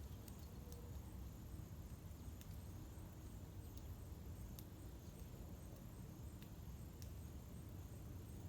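Faint outdoor ambience: a steady low rumble with a few scattered faint clicks and a faint high ticking repeating about two or three times a second.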